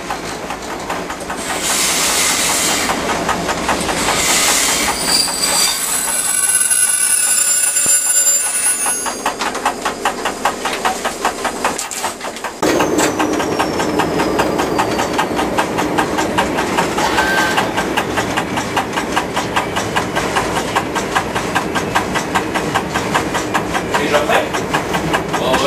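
A train running on the rails, heard from inside the driver's cab: engine and wheel noise with a rhythmic clatter, and a brief high wheel squeal about six to nine seconds in.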